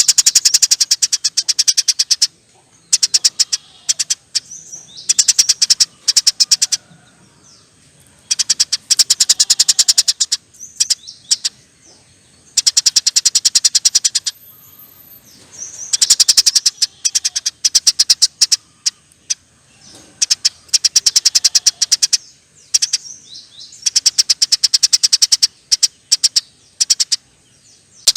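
Eurasian tree sparrow giving long, rapid chattering rattles, about nine bursts of fast chips each lasting one to three seconds, with short pauses between.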